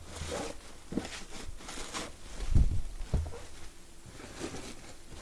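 A parcel being handled on a surface: scattered rustles and small knocks, with a couple of heavier thumps about two and a half and three seconds in.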